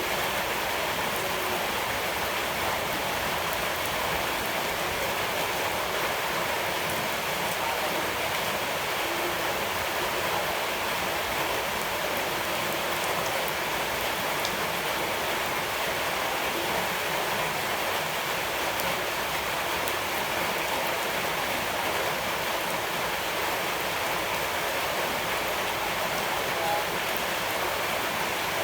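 Steady, even rush of water, a constant hiss that neither rises nor falls.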